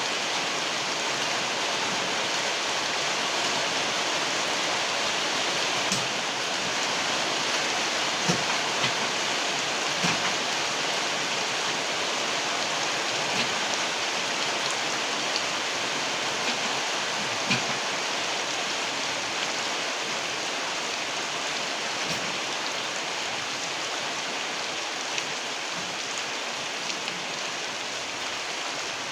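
Very heavy rain pouring steadily, with scattered louder drops and drips knocking now and then.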